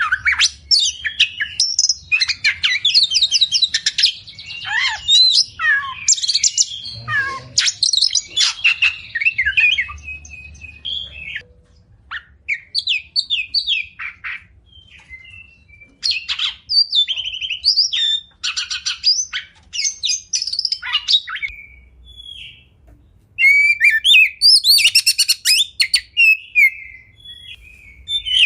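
Oriental magpie-robin singing a long, varied song of whistles, chirps and fast trills, with short pauses in the middle and a dense burst of rapid notes near the end.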